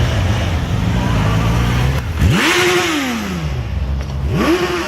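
A motorcycle engine running, then revved twice. About two seconds in its pitch shoots up, holds briefly and falls away slowly, and near the end it rises sharply again.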